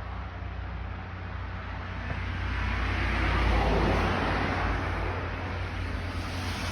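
Road traffic going by: a steady rushing noise over a low hum that swells to its loudest about three and a half seconds in, then eases off, like a vehicle passing.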